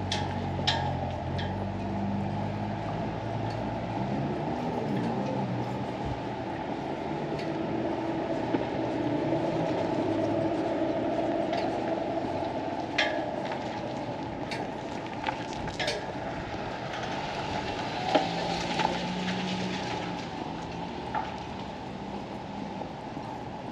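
A motorboat engine running low and fading away over the first few seconds. Then steady outdoor harbor ambience with scattered sharp clicks and clinks.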